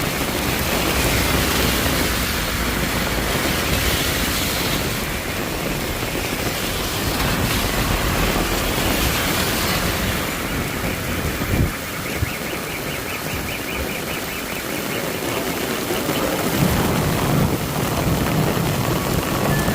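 Heavy rain pouring down steadily, a dense even hiss, easing slightly in the high end about halfway through.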